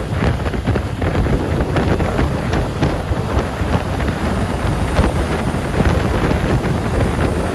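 A moving truck with heavy wind buffeting the microphone: a loud, continuous rush with many short knocks and rattles.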